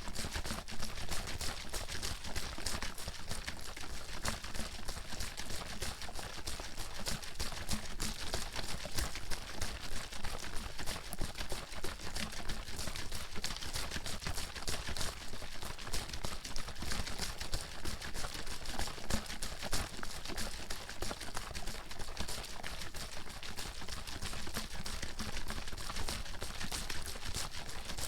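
Water being shaken hard in a bottle: fast, even sloshing and splashing that keeps going without a break.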